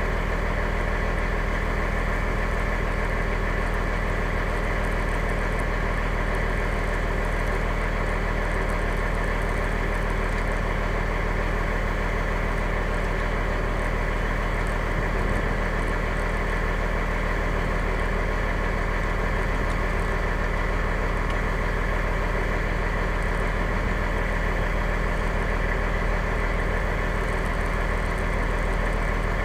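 Fire engine's diesel engine running steadily, heard from inside the cab, a constant even hum with no change in speed.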